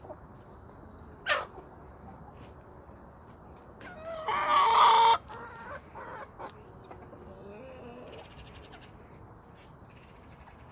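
Domestic chickens calling: a short squawk about a second in, then one loud call lasting about a second near the middle, with faint clucks after it.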